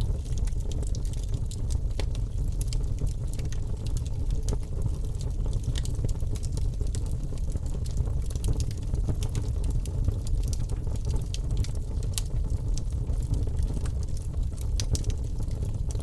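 Wood fire in a fireplace crackling steadily: a low rushing of flame with many sharp little pops and snaps scattered irregularly throughout.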